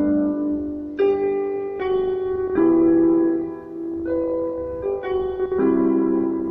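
Piano playing slow chords in the key of G, a new chord struck about every second and left to ring.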